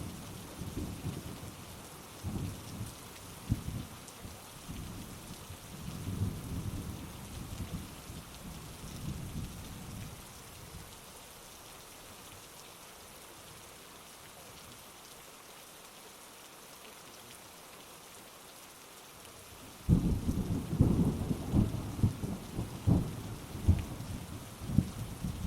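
Thunderstorm: steady heavy rain with rolling thunder that rumbles and dies away over the first ten seconds, then a sudden loud thunderclap about twenty seconds in that keeps rumbling in peaks.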